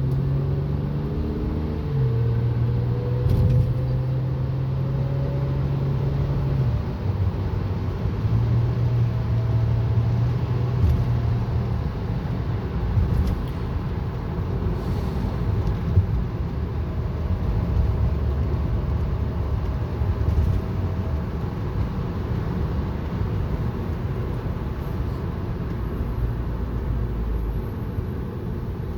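Car cabin noise in a 2006 Honda Accord V6 under way: steady engine and road rumble, with a faint whine that rises in pitch over the first several seconds as the car picks up speed and returns briefly near the middle. The cause of the whine is unknown to the owner.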